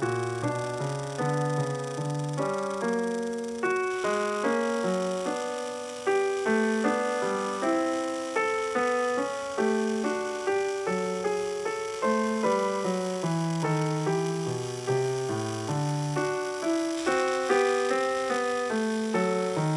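Background piano music: a steady flow of notes, each struck and then fading.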